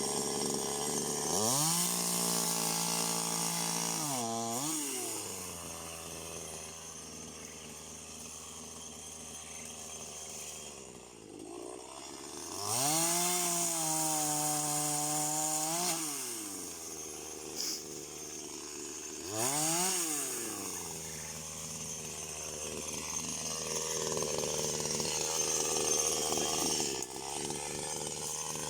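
Chainsaw sawing through fruit-tree branches: its motor revs up to full speed three times, held for a few seconds the first two times and briefly the third, and drops back to a lower speed between.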